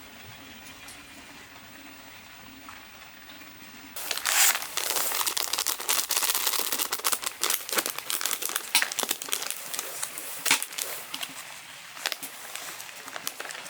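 Faint steady hiss, then about four seconds in a sudden, dense crinkling and crackling, like something crumpled or rustled by hand, that goes on irregularly.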